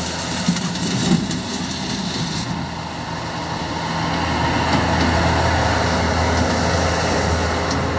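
Bobcat S250 skid steer's diesel engine running steadily, getting louder about four seconds in. A high hiss with clattering clicks over it stops about two and a half seconds in.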